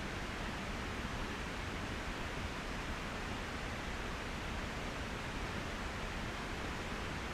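Trangia stove burner flame hissing steadily under a kettle as the water heats toward the boil.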